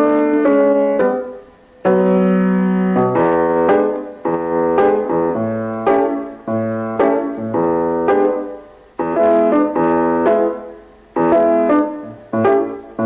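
Chords played on a piano-type keyboard, each struck and left to fade, in an unhurried sequence with brief pauses between phrases.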